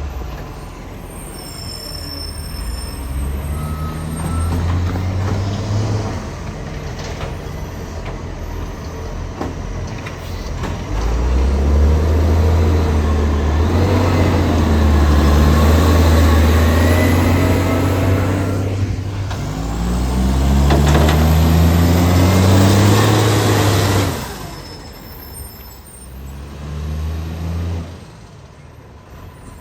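International ACCO garbage truck's diesel engine revving up several times and dropping back between, the longest and loudest rev about halfway through. The truck has an exhaust leak.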